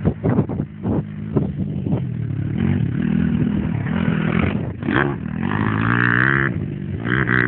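Small pit-bike engine running and revving up, with some clattering in the first couple of seconds.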